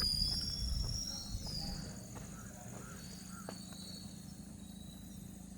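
Forest ambience at dusk: insects trilling steadily in a high pitch, with a few short gliding bird chirps in the first two seconds and scattered faint clicks.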